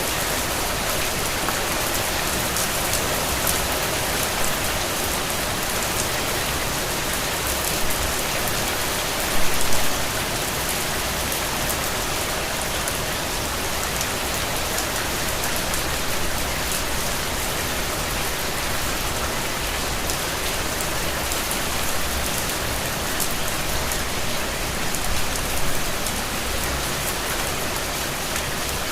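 Steady rain falling, a dense even hiss of drops with a brief louder spatter about nine seconds in.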